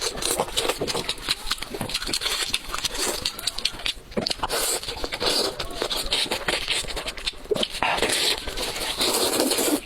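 Close-miked eating of goat's head meat: continuous wet chewing, smacking and slurping with dense irregular clicks.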